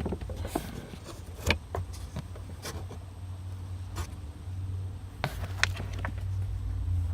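Scattered sharp clicks and knocks of fuel pump parts being handled, over a steady low hum.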